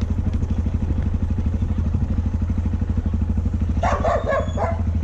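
Yamaha Ténéré motorcycle engine running with a steady, pulsing low drone. A dog barks a few times near the end.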